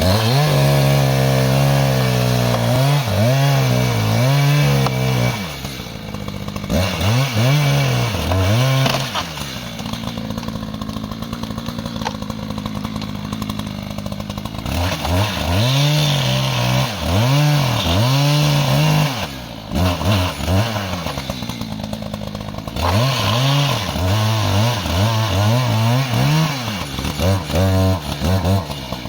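Two-stroke chainsaw cutting into a log that is under heavy side bind. The engine revs up and sags back again and again as the chain bites, with a stretch of lower, steadier running in the middle.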